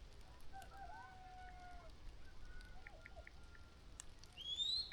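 Faint distant calls, then a single rising whistle near the end, from children whistling and shouting in the distance.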